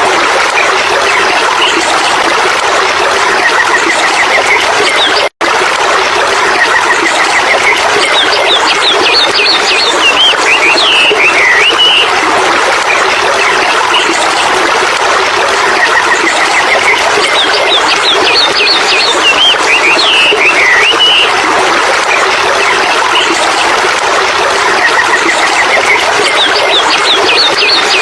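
Birds chirping in quick runs of short notes that recur every several seconds, over a steady, even rushing noise. The sound cuts out completely for a split second about five seconds in.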